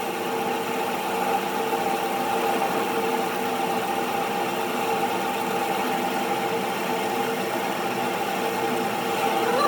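A workshop machine running steadily with a constant hum. A short rising sound comes just before the end.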